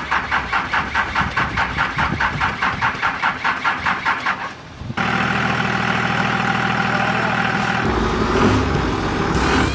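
Diesel truck's 12-valve Cummins straight-six being cranked by its starter, about five pulses a second for roughly four and a half seconds. It then fires and settles into a steady idle, with a deeper rumble joining near the end.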